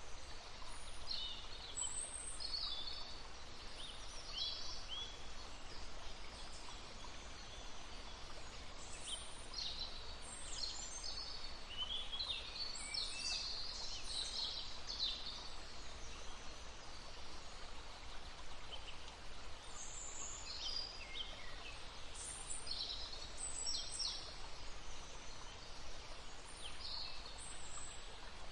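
Small songbirds chirping and trilling in short, overlapping phrases over the steady rush of a babbling brook; the birds are busiest midway.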